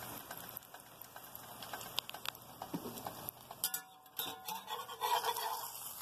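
Sweet potato dough frying in hot vegetable oil in a cast iron skillet: a steady sizzle with scattered crackles and pops. Near the end a spatula scrapes against the pan as the bread is turned.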